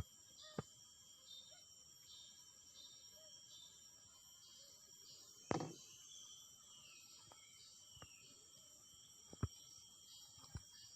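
Insects calling: a steady high drone with a pulsing chirp repeating a little faster than once a second. A few sharp clicks or knocks cut in, the loudest a little past halfway.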